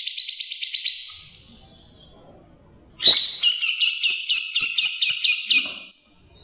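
A songbird singing: a rapid trill that fades out about a second in, then after a short pause a run of repeated whistled notes, about four a second, that cuts off abruptly near the end.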